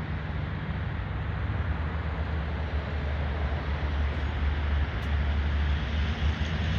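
A 1967 Buick Gran Sport's 400 cubic-inch V8 idling steadily, with a low, even, pulsing rumble.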